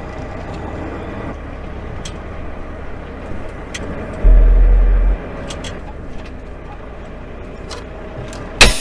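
Steady vehicle road and engine noise, with a loud deep rumble for about a second just past the middle and a sharp click near the end.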